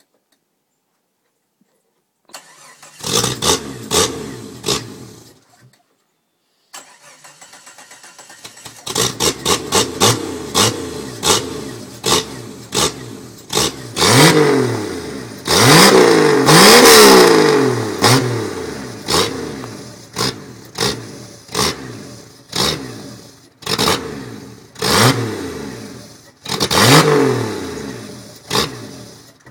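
Cold start of a 5.9-litre 12-valve Cummins inline-six diesel through a straight 5-inch stack. It fires for a few seconds, stops, then starts again about seven seconds in. After that come many quick throttle blips and several longer revs that rise and fall in pitch.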